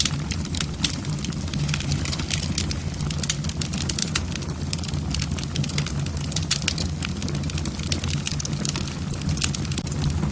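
Wood fire in a fireplace, logs crackling with frequent, irregular sharp pops over a steady low hum.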